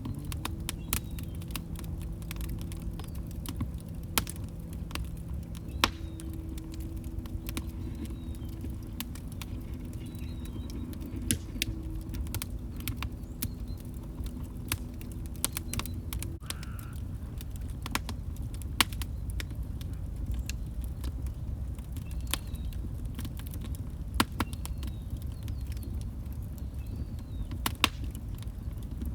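Wood log fire crackling, with sharp irregular pops and snaps over a low, steady rumble of flames.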